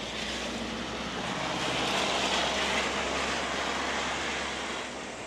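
A vehicle passing by: a rushing noise that builds to a peak about two to three seconds in and then fades away.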